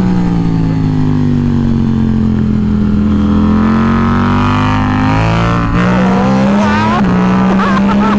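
KTM RC8C race bike's engine at high revs on track, heard on board: a loud, steady engine note that rises slightly in pitch over the first few seconds, then dips briefly in pitch about six and seven seconds in.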